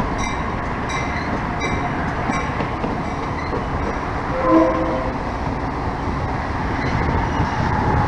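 Commuter train of bilevel coaches rolling through a rail yard with a steady rumble. A bell dings about every two-thirds of a second for the first two or three seconds. A short train-horn blast sounds about halfway through and is the loudest moment.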